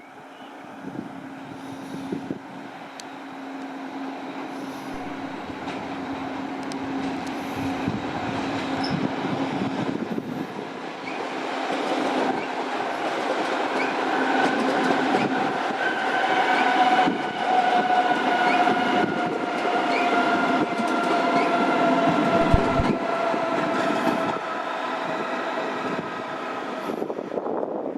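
A train running through the station, growing louder over the first half. In the second half a whine slowly falls in pitch and cuts off near the end.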